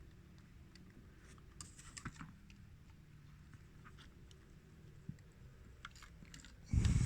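Small plastic clicks and taps as parts of a CD player's disc mechanism are handled and fitted together, in scattered clusters, with one louder thump near the end.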